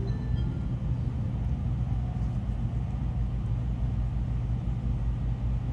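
Steady low rumble of running noise inside a Tokaido Shinkansen passenger car. The last notes of the on-board chime melody fade out at the very start.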